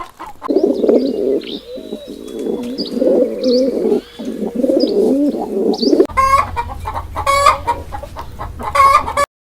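A flock of birds making dense, low cooing and clucking calls, with higher chirps over them. About six seconds in, this changes to loud, repeated chicken clucks, which cut off abruptly near the end.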